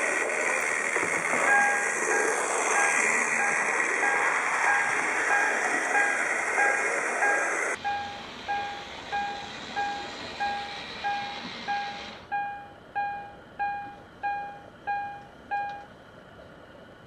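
Model railway warning bell dinging about twice a second, each stroke sharp and fading, over a steady rushing hiss from the running layout that cuts off abruptly about eight seconds in; the dings stop near the end.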